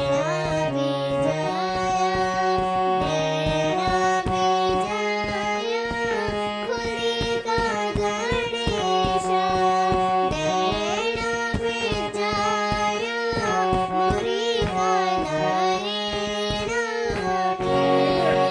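A young girl singing a Garhwali folk song over a harmonium's steady held chords and hand-drum strokes.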